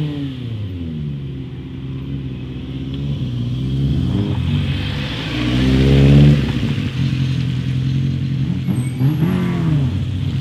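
Rally car engines revving at a stage start on wet tarmac: one car blips and holds its revs, then accelerates hard away, loudest about six seconds in. Near the end the next car revs up and down as it waits at the line.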